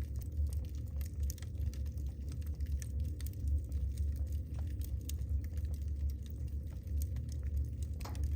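Wood fire burning in a fireplace: frequent small, irregular crackles and pops from the burning logs over a steady low rumble.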